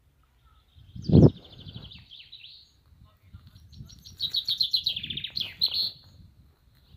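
A songbird singing two fast, trilled, high phrases, the second longer, with a loud low thump about a second in.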